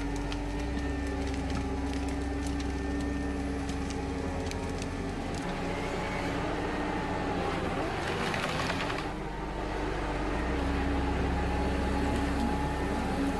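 Engine of a heavy forestry machine running steadily with a low hum, with a brief burst of rougher noise about two-thirds of the way through.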